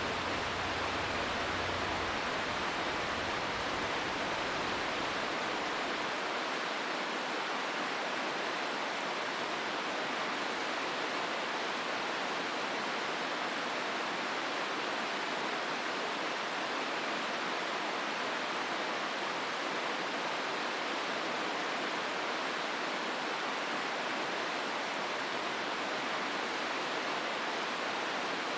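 Steady rushing of river water over the rapids of the Hozu River. A faint low rumble underneath fades out within the first six seconds.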